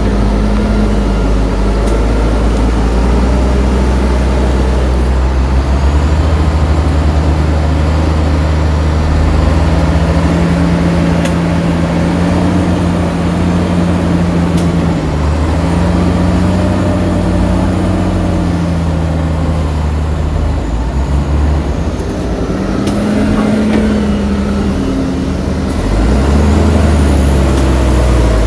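Diesel engines of heavy earthmoving machinery running under load. Engine speed rises and falls several times as the machines work.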